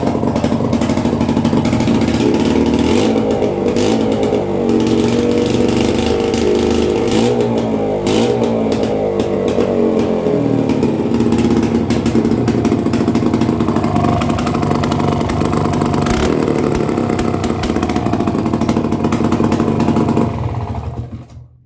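Four-wheeler (ATV) engine running loud with a piece of its exhaust pipe popped off, the revs rising and falling through the middle. The engine sound stops near the end.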